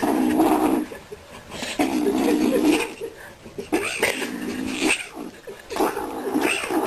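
A kitten growling in four low calls, each about a second long and roughly two seconds apart, as it guards a cigarette it has taken for food while someone tries to take it away.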